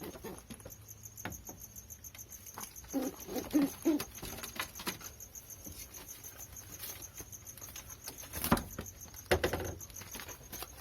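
Male domestic pigeon cooing at a newly introduced female, a run of short low coos about three seconds in, among scattered taps and scuffles in the cage, with two louder knocks near the end.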